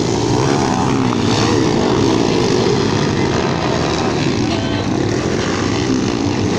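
Motocross dirt bike engines running hard and revving, the pitch rising and falling without a break.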